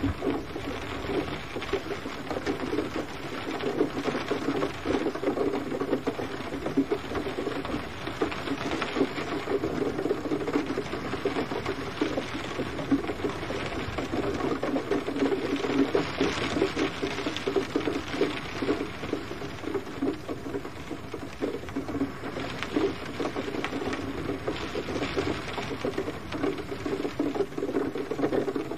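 Steady gentle rain: a dense, even patter of drops on a surface, with no thunder.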